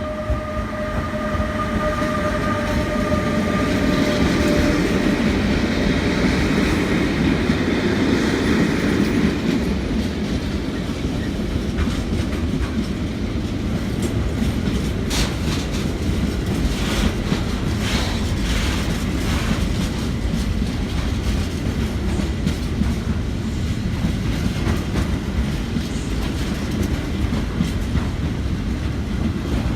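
A train passing on the tracks, with a continuous rumble and the wheels clattering over the rail joints. A steady whine fades out over the first few seconds.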